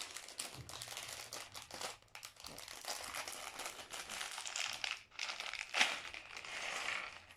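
Plastic LEGO parts bags being crinkled and torn open by hand, a continuous crackling rustle with small clicks of bricks shifting inside.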